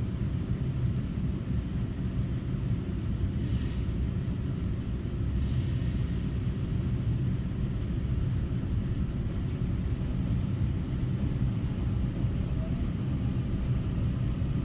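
A Taiwan Railway EMU900 electric multiple unit running along the line, a steady low rumble as heard from inside the car. There are two brief hissing swells, about three and a half and five and a half seconds in.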